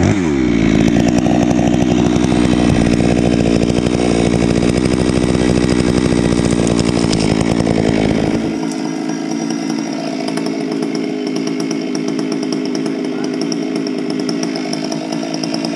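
Gasoline chainsaw running at full throttle, rising to full revs right at the start and then holding a steady high whine, thinning a little past halfway.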